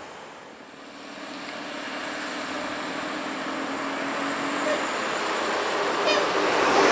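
A truck approaching on the highway, its engine drone and tyre noise growing steadily louder.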